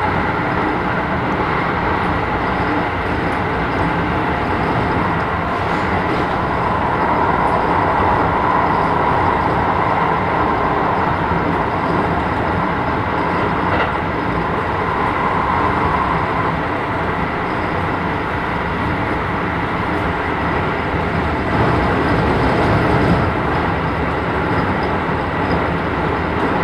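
Keisei 3000 series electric train heard from inside a passenger car while running: a steady rumble of wheels on the rails, with a steady high tone underneath.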